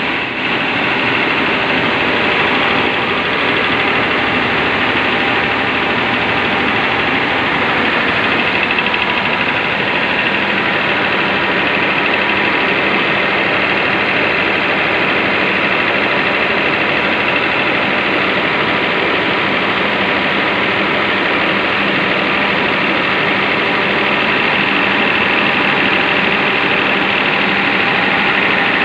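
Cummins KTAA19, a large 19-litre inline-six turbocharged diesel engine, running at a steady speed without revving.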